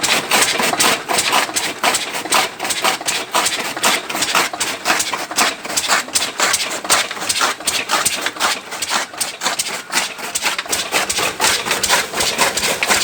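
Lister-type 8 hp single-cylinder diesel engine running steadily under load, driving a belt-driven chaff cutter chopping sugarcane for fodder, with an even, rapid knocking beat about five times a second.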